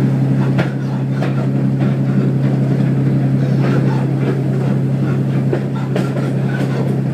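Railbus diesel engine running with a steady low drone, with scattered light clicks and rattles.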